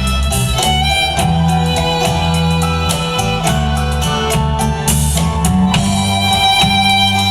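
Live indie-folk band playing an instrumental passage: violin melody over guitar and bass, with a steady beat.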